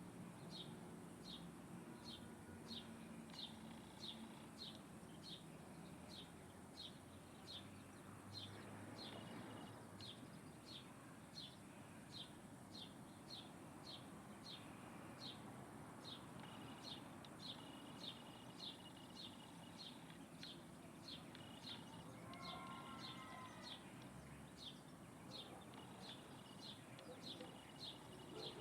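A small bird calling, one short high chirp repeated steadily about three times every two seconds, faint over low background hiss.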